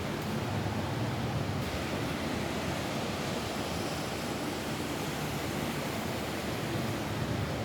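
Steady rain falling on a roof: an even, unbroken hiss with no single drops standing out.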